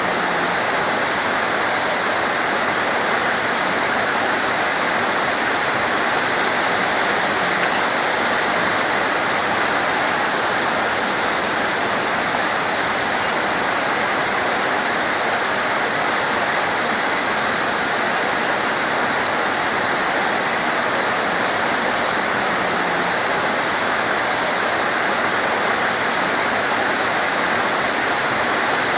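Heavy, torrential rain falling steadily in a dense, even hiss, with one brief tick about two-thirds of the way through.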